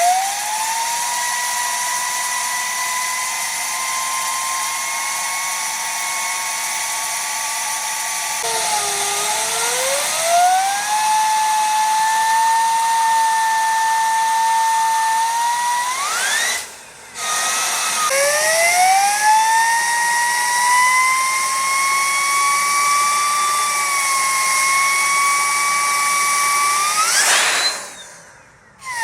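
Homemade wood-gas-fired gas turbine running, its turbine wheel whining at a high pitch over a steady hiss. The whine climbs as it spools up, sags about nine seconds in and climbs back, breaks off twice, and near the end rises sharply in pitch before cutting off.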